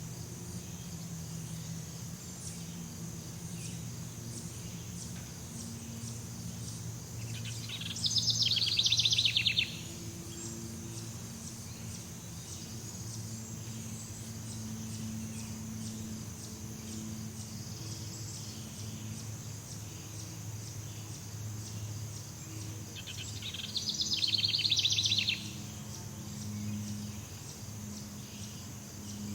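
Jungle ambience: a steady high insect buzz over a low drone, with a loud rapid chattering bird call twice, about eight seconds in and again near twenty-four seconds.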